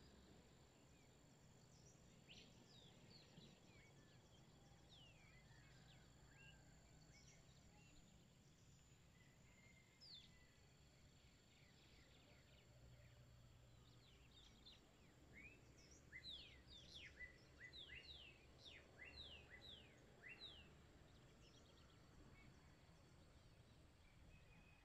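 Faint birdsong: scattered short chirps that slide downward in pitch, with a louder, quicker run of them about two-thirds of the way through, over a faint steady high tone.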